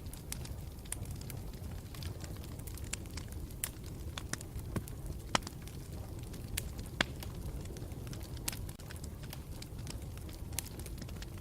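Campfire burning with a steady low rumble and frequent irregular crackles and pops, the sharpest snaps about five and seven seconds in.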